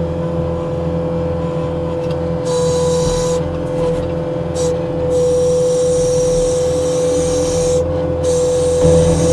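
New Holland 232 track skid steer's diesel engine running steadily, with a steady whine over it. A high hiss comes and goes partway through.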